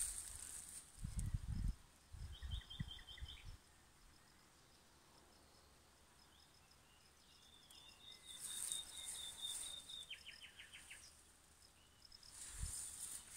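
A small songbird singing two short, fast trills, with low wind rumble on the microphone in the first few seconds and brief rustles.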